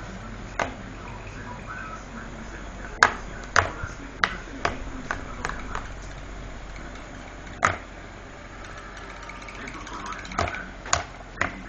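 A dozen or so irregular sharp clicks and knocks, some close together, over a steady low hum and faint voices.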